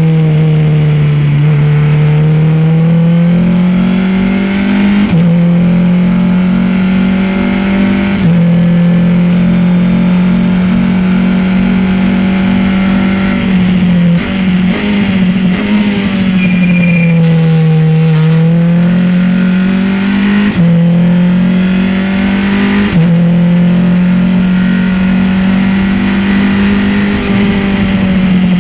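Race car engine running hard around a circuit. Its pitch sags and climbs again through the corners and jumps suddenly at each gear change.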